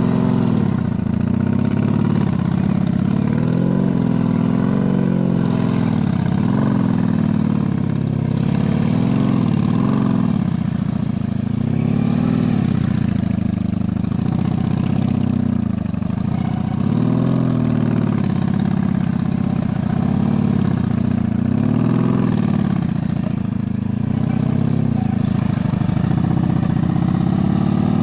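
Honda Magna V4 motorcycle engine running at low speed through tight cone-course turns, its pitch rising and falling every couple of seconds as the throttle is opened and eased.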